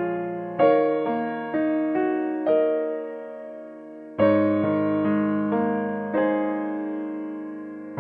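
Background music of a solo piano playing slow, gentle phrases, each note struck and left to fade, with a fuller chord about four seconds in.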